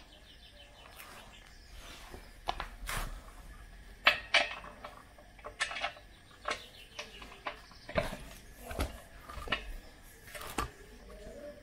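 Irregular clinks and knocks of hard parts being handled and set down, about a dozen sharp taps spread unevenly, the loudest about four and eight seconds in.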